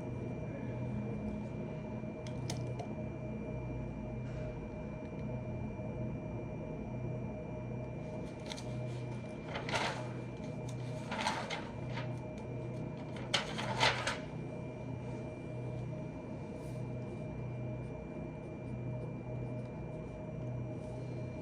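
Steady low electrical hum with faint steady tones, broken about halfway by a few brief noisy handling sounds.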